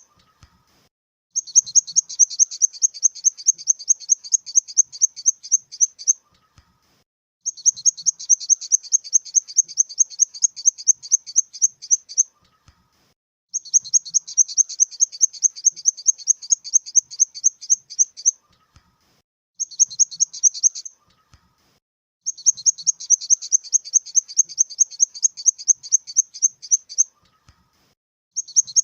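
Grasshopper stridulating: high-pitched, buzzy phrases of rapid pulses, about six a second. The phrases mostly last about five seconds, with one short one, and repeat after pauses of about a second.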